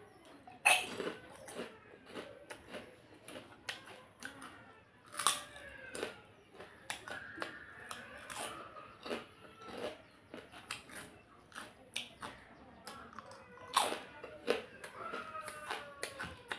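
A person eating a meal of rice and dal close to the microphone: chewing, lip smacks and a rapid, uneven run of sharp clicking bites.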